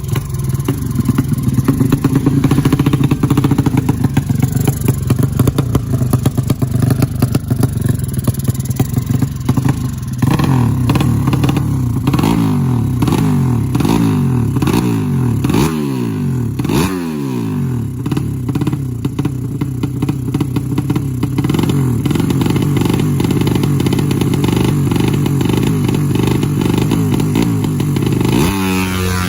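200cc motorcycle engine running during tuning, blipped up and down repeatedly in quick revs around the middle, then held at a steadier speed. Its pitch falls away at the very end.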